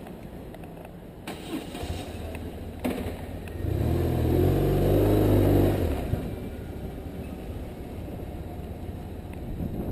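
BMW R1150RT motorcycle's boxer-twin engine running, revving up for about two seconds in the middle as the bike pulls away, then settling back.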